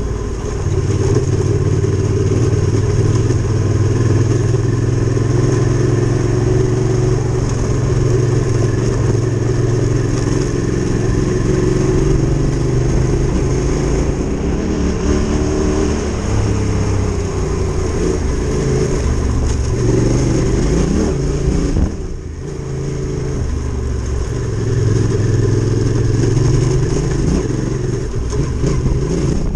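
Adventure motorcycle engine running under way, steady at first, then its pitch rising and falling from about halfway as the revs change, with a brief drop about three-quarters through before it picks up again.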